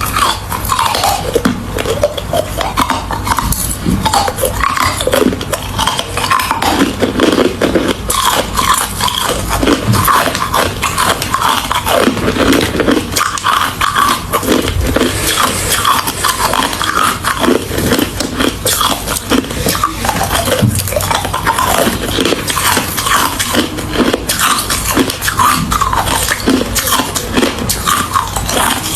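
Ice being bitten and chewed close to the microphone: a continuous run of sharp, crackling crunches.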